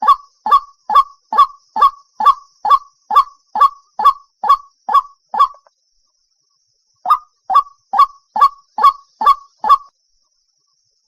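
White-breasted waterhen calling a monotonous series of short, loud 'kook' notes, about two a second: a run of about thirteen, a short pause, then seven more, as a recording played to lure the birds.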